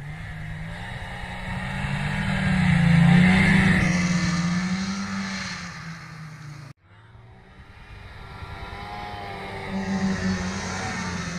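A 440 cc snowmobile engine running under throttle, growing louder to a peak about three seconds in and then fading as the sled moves off. After an abrupt cut, engine sound builds again.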